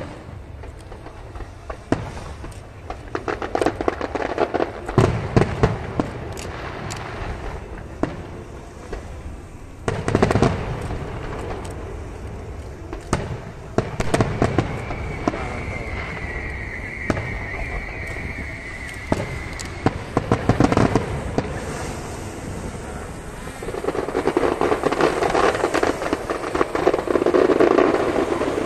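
Aerial fireworks bursting: booms and sharp cracks in quick succession. A high, steady whistle lasts about five seconds midway, and a dense spell of crackling comes near the end.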